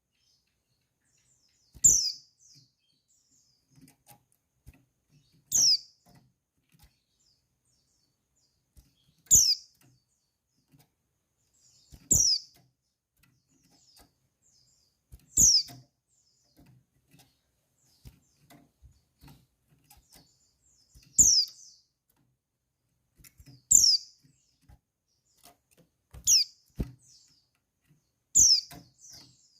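Female white-eye (pleci) giving short, high call notes that fall in pitch, one every two to four seconds, about nine in all: a female's call used to stir male white-eyes into song.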